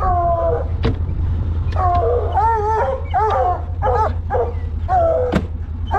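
Coonhounds barking treed: drawn-out, bawling barks repeated about once a second, over a steady low hum.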